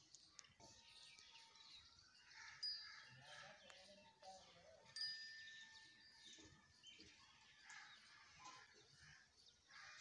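Faint bird chirping: short high chirps and whistles over a light background hiss, with one call held for about two seconds midway.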